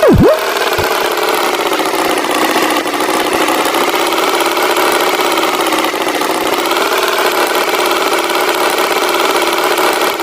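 Cartoon tractor engine sound effect running steadily. It opens with a quick, loud tone that swoops down and back up.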